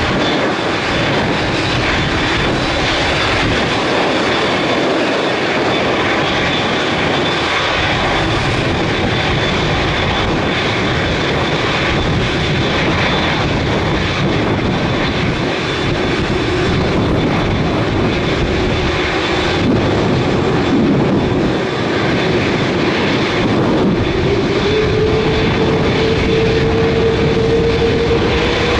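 Jet airliner engines running with a steady loud roar and a faint high whine. A lower tone rises slowly in pitch through the second half.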